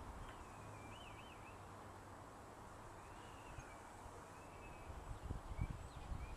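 Faint birdsong, a few warbling chirps, over steady outdoor background noise, with a cluster of low thumps about five seconds in.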